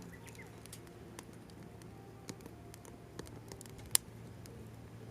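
Wood fire crackling with scattered small ticks and one sharp loud pop about four seconds in.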